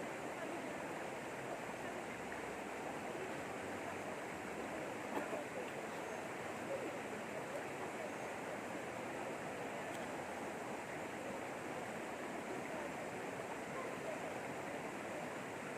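River water flowing and rushing, a steady even wash.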